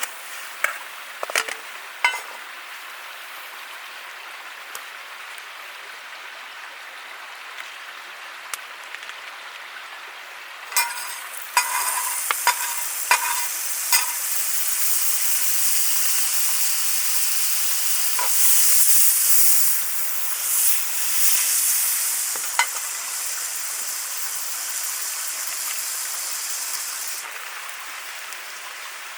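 Food sizzling and frying in a hot pan, starting suddenly about a third of the way in and growing louder past the middle, with metal utensil clinks against the pan as it is stirred. A few lighter clinks come before the sizzling starts.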